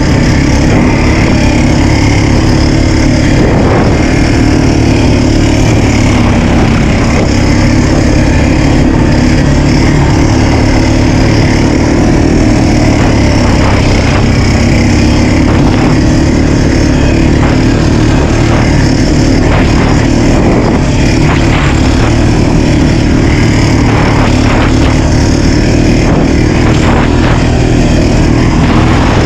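Small off-road vehicle engine running steadily while being ridden, loud and close, with little change in pitch or level.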